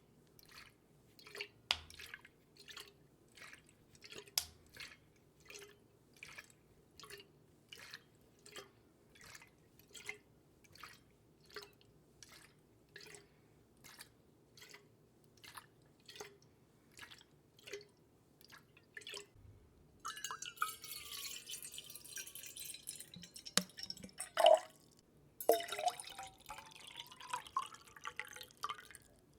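Water dripping in a steady rhythm, about three drops every two seconds. About two-thirds of the way in it gives way to louder pouring and splashing water, with gliding tones in it.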